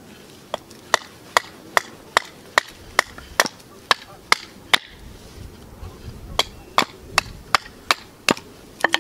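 Plumb World War II hatchet chopping wood on a chopping block to shape a stake: quick, evenly paced strikes, about two and a half a second, in two runs with a short pause near the middle.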